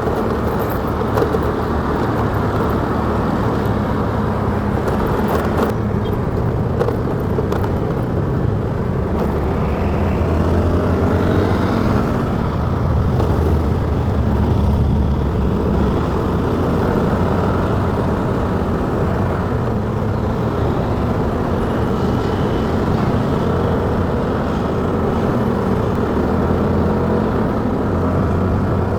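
Motorcycle engine running steadily while riding, under an even rushing road and wind noise.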